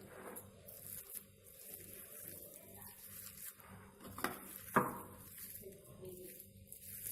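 A spoon working through a vegetable filling in a vessel, with faint scraping and two sharp knocks of the utensil about halfway through, the second louder.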